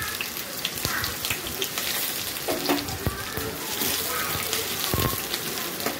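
Chopped onion and green chilli sizzling in hot oil in a nonstick pan, with scattered scrapes and taps of a slotted spatula stirring them.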